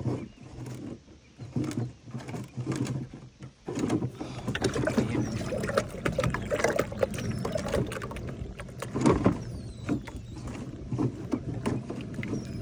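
Knocks and clunks of gear being handled on a plastic fishing kayak, with water movement around the hull. A steady low hum sits under it, and a few faint high chirps come in over the middle.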